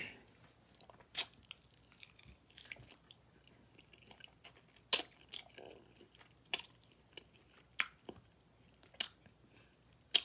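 A person chewing saucy barbecue ribs close to the microphone: quiet chewing broken by about six sharp, wet mouth smacks a second or more apart.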